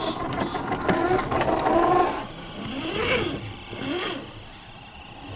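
Electric motor and gear whine of RC scale crawler trucks, steady for about two seconds, then rising and falling in short throttle bursts.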